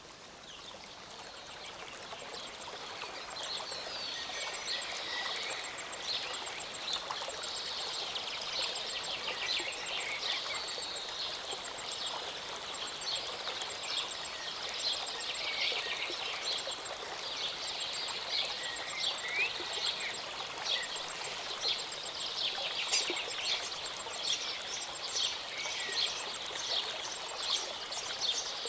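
A small mountain stream or waterfall running steadily, with many birds chirping and singing over it in a dense chorus. The sound fades up over the first few seconds.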